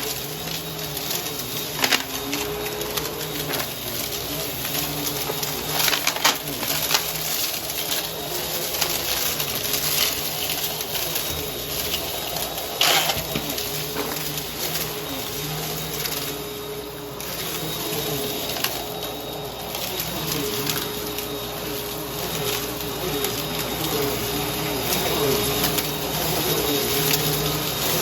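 Vacuum cleaner running over a carpet strewn with crunchy debris. The motor hums steadily with a wavering pitch, broken by scattered sharp clicks and crackles as bits are sucked up.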